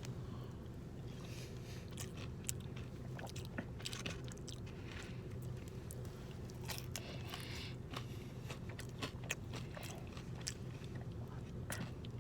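A person chewing a hot mouthful of fries topped with buffalo chicken and cheese sauce, with scattered soft clicks and smacks. A faint steady hum runs underneath.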